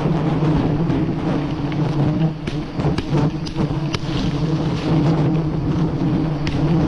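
Swarm of honeybees buzzing around their nest: a steady, dense drone, with a few light clicks in the middle and near the end.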